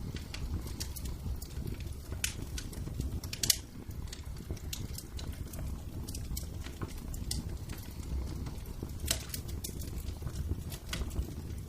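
Wood fire in a fireplace crackling, with irregular sharp pops over a low steady rumble; the loudest pop comes about three and a half seconds in.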